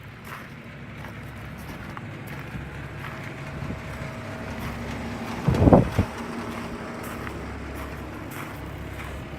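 Rooftop air conditioner condensing units running: a steady low hum with a held tone from the compressors and fans. Just past halfway, a brief loud rumble of wind hits the microphone.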